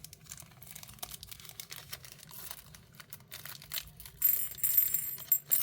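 Small Czech glass pumpkin beads being handled, clicking and rattling against each other with faint crinkling of their packet. The clicking turns louder with high ringing clinks about four seconds in.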